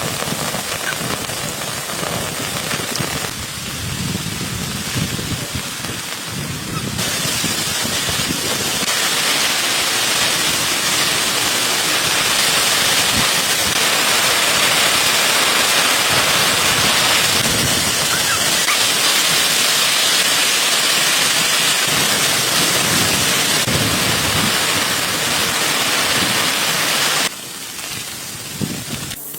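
Heavy rain falling, a dense steady hiss that shifts abruptly in level several times and drops away sharply near the end.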